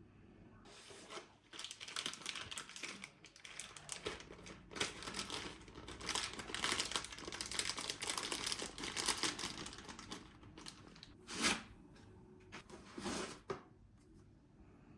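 Packaging being crinkled and torn open in irregular rustling spurts, then two louder rustles or knocks from handling a few seconds before the end.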